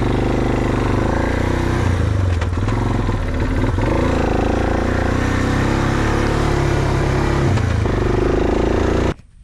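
ATV engine running while riding, its pitch rising and falling with the throttle. It cuts off abruptly near the end.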